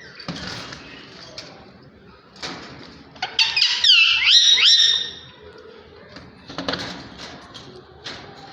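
Rose-ringed (ring-necked) parakeet giving a quick run of loud, shrill screeching calls, each sliding in pitch, about three seconds in and lasting under two seconds. A few brief scuffling noises come before and after.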